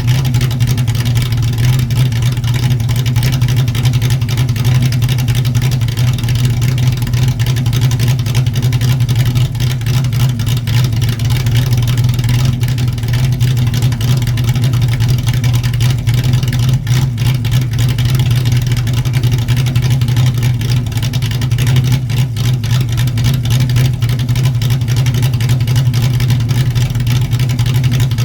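Exhaust of a cammed Ford 5.0 V8 through a catless H-pipe and Flowmaster 10 dual exhaust, idling at a steady speed with no revs.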